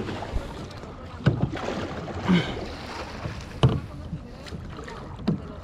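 Kayak paddling: paddle blades stroking through the water over a steady wash, with four sharp knocks spread a second or so apart.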